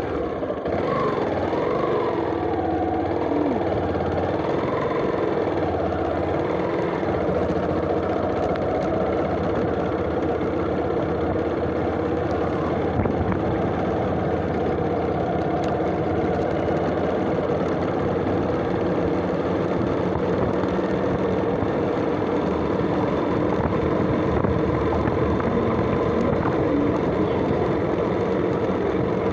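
Motorcycle running steadily at cruising speed along the road, engine note holding even throughout.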